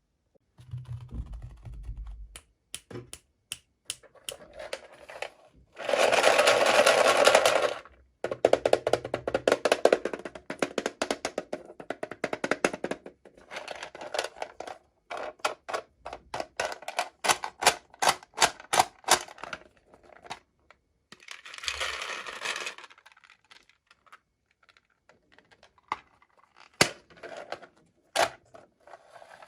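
Hand-unboxing sounds: packaging crinkling and tearing in bursts, with many small clicks and taps of toy pieces being handled. The loudest burst of crinkling comes about six seconds in.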